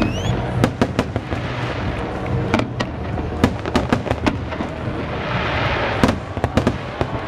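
Aerial fireworks display: shell bursts going off as sharp bangs in quick, irregular succession, several a second. About five seconds in there is a stretch of crackling hiss.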